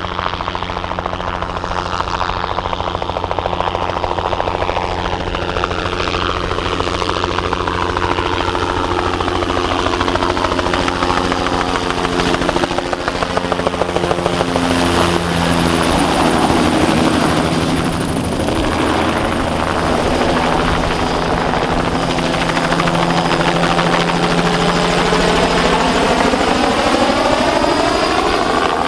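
Bell 206B-3 JetRanger III helicopter flying a low spraying pass, its rotor and turbine running steadily; its pitch drops about halfway through as it goes by, and it is loudest just after the middle.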